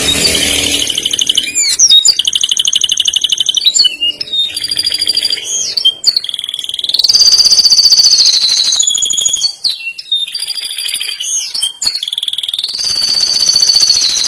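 Male domestic canary singing a long, unbroken song of rapid trills. The song changes phrase every second or two, with whistled notes sliding up and down between the trills.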